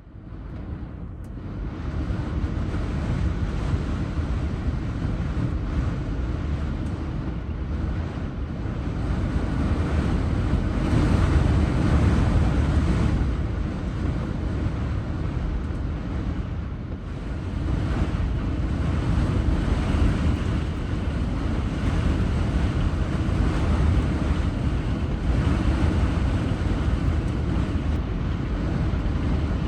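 Strong windstorm wind blowing and gusting, with heavy wind buffeting on the microphone. It swells about ten seconds in and again a few seconds later.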